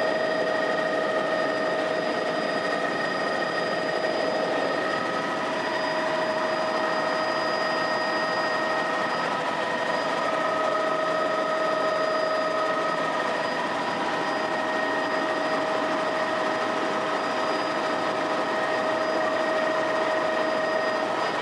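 Helicopter running steadily: an even rushing noise of engine and rotors with several steady high whining tones over it.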